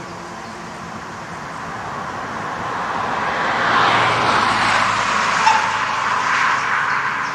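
A vehicle passes by: its noise builds, is loudest around the middle, and fades away, with a brief squeak about five and a half seconds in.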